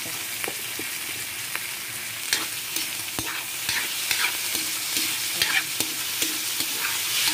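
Sliced pork, onion and garlic sizzling in hot oil in a wok, stirred with a spatula that scrapes and clicks against the pan now and then.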